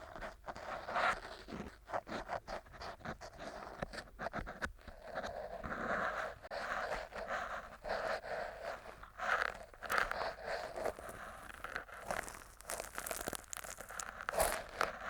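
Stainless-steel earpick scraping inside an ear canal: an uneven stream of crackly scrapes and small sharp clicks as the pick works through earwax.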